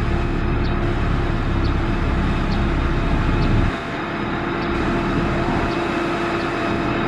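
Heavy construction machinery's diesel engine running steadily, with a faint high tick about once a second. The low rumble changes suddenly a little past halfway.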